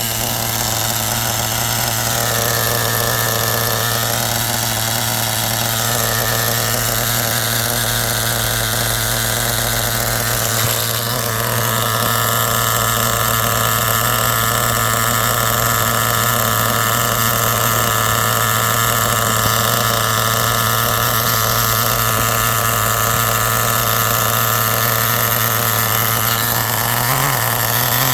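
Academy XT15 nitro engine of an RC car running steadily at a near-constant speed; its tone shifts slightly about eleven seconds in.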